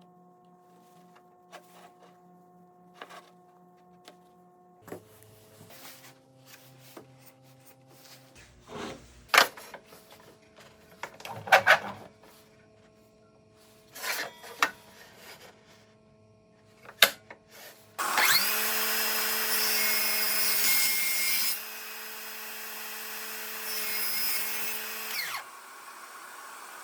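Scattered knocks and clicks of wood being handled, then an electric power tool runs steadily for about seven seconds. Its sound drops in level about halfway through, and it stops shortly before the end.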